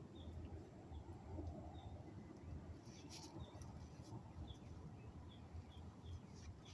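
Faint, short high chirps from a small bird, repeated about eight times at uneven intervals, over a low rumble. A brief rustle or click comes about three seconds in.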